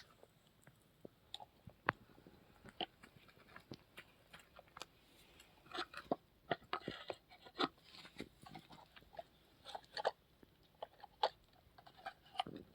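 Small plastic toys clicking and clattering in short, irregular taps and knocks, several a second.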